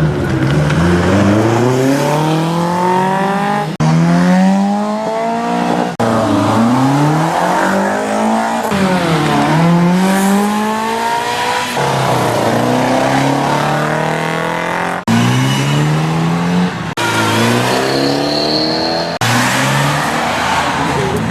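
Classic car engines revving hard on a gymkhana run, the exhaust note climbing and dropping again and again with gear changes and lifts off the throttle. Several short takes are cut together, so the engine sound changes abruptly every few seconds.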